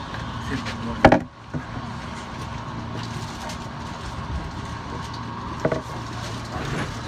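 Steady electrical hum of a stationary Hankyu electric train. A single sharp knock comes about a second in, and a softer knock near six seconds.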